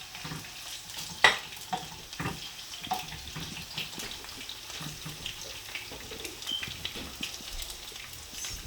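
Chopped onion frying in hot oil in a pan: a steady sizzle with scattered crackles and pops, the sharpest about a second in.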